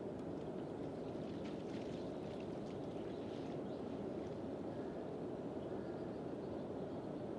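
Steady rush of turbulent river water as large waves surge along the river.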